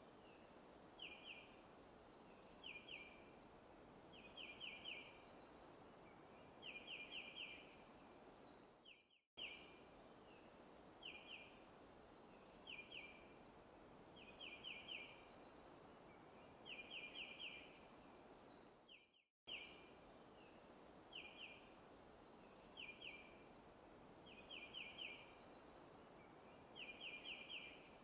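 Faint forest ambience recording: a steady hiss with a bird repeating short high chirps in quick clusters of one to four notes. The same pattern loops about every ten seconds, with a brief dropout to silence at each loop point.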